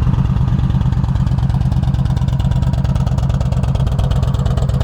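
A 2007 Yamaha V Star 1300's liquid-cooled V-twin idling steadily through its 2-into-1 exhaust, with an even, regular pulse. The engine sounds healthy, free of any engine noise.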